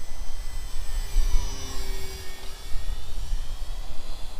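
Electric motor and propeller of a radio-controlled Cessna TTX model plane in flight: a thin high whine whose pitch sags and comes back about halfway through, over wind rumble on the microphone.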